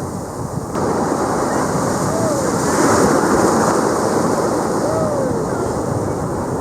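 Ocean surf breaking and washing up the beach, with wind buffeting the microphone; the sound grows louder about a second in. Two short high voices carry faintly over the surf.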